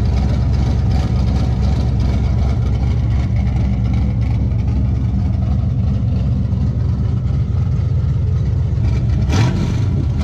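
1972 Chevelle SS's 383 stroker small-block V8 idling with a big cam, a lopey, uneven idle. The engine note rises briefly near the end.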